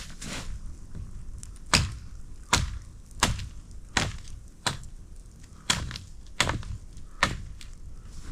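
A blade chopping into a wooden stick, shaping it into a cooking spit: a steady series of sharp chops, about one every 0.7 seconds.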